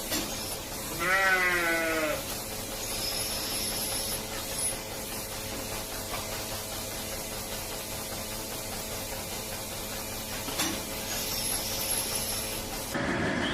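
A calf bawls once, a wavering call of about a second, over a steady mechanical hum. Near the end a louder noise cuts in abruptly.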